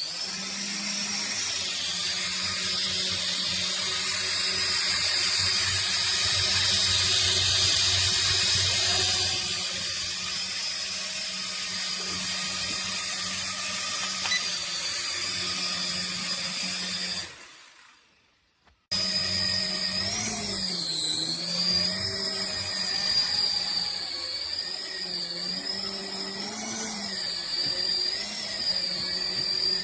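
Small electric motors and rotor blades of a toy remote-control helicopter whining steadily. The sound fades out about 17 seconds in, goes silent for a moment, then comes back with its pitch wavering up and down.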